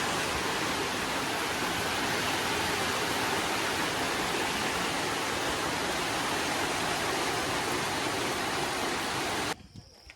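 Heavy rain falling steadily, a dense even hiss that cuts off suddenly near the end.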